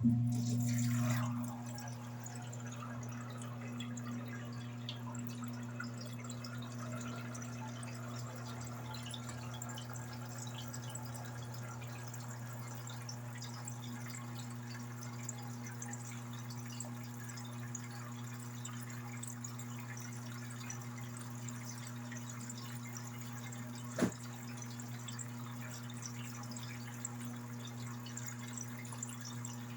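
Electrolux LED14 14 kg washing machine on a water stage: a steady electric hum with water running, which starts suddenly and cuts off at the end. A single sharp click comes about 24 seconds in.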